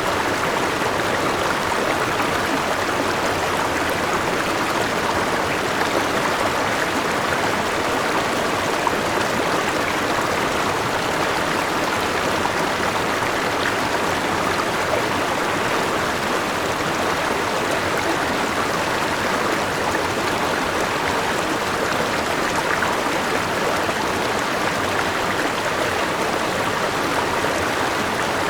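Forest river flowing over rocks, a steady rush of water.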